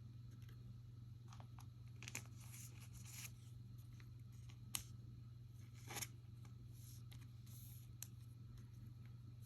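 Trading cards being handled: faint rustling and sliding of card stock with a few light clicks, the sharpest about halfway through, over a steady low hum.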